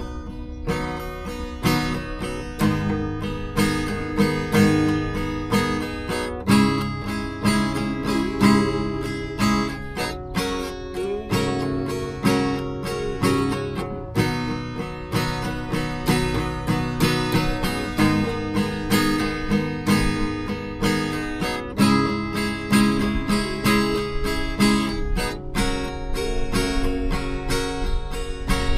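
Acoustic guitar music, strummed and plucked with a steady beat, without singing.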